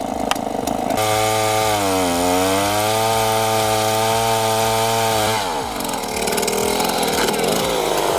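Stihl 090 AV, a big two-stroke chainsaw with a four-foot bar, running at low revs under heavy load while cutting an oak root ball. Its pitch sags about two seconds in, recovers and holds steady, then drops away after about five seconds.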